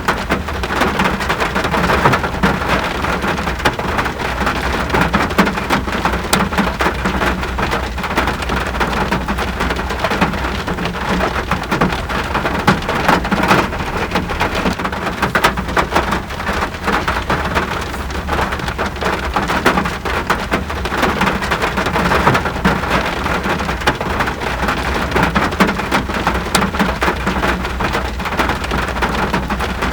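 Steady rain falling, a dense patter of drops hitting surfaces over a constant low rumble.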